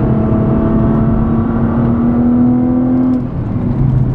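Nissan GT-R R35's twin-turbo V6 pulling hard under throttle, heard inside the cabin, its pitch rising slowly. A little after three seconds in the throttle is lifted and the engine note drops away.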